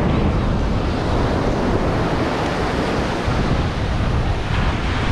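Ocean surf breaking on a beach, a steady wash of waves with wind buffeting the microphone.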